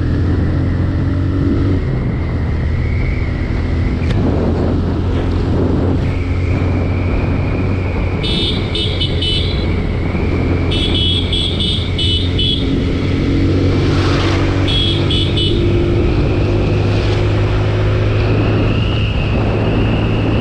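TVS Apache RTR 160 single-cylinder motorcycle engine running under way, its pitch rising and falling with the throttle. About halfway through, a vehicle horn sounds three times in short runs of rapid beeps.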